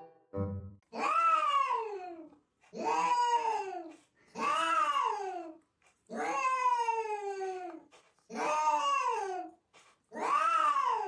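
A cat meowing in six long, drawn-out calls, about one every second and a half. Each call rises and then falls in pitch.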